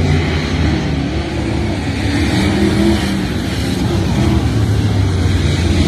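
Car engines running loud and steady, their pitch wavering slightly.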